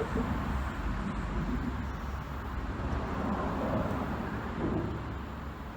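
Steady low rumble of road traffic crossing a road bridge.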